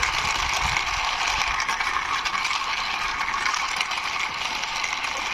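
Toy V2 racing car's plastic wheels rolling and rattling steadily as it is pushed by hand along a boundary wall, a continuous gritty clatter.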